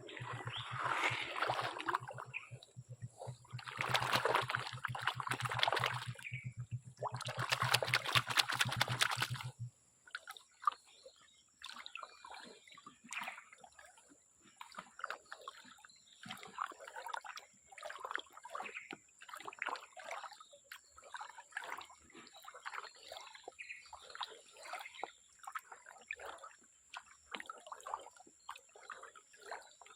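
Water splashing and sloshing: three louder surges of splashing in the first ten seconds over a low steady hum that cuts off suddenly, then quieter, irregular small splashes and trickles.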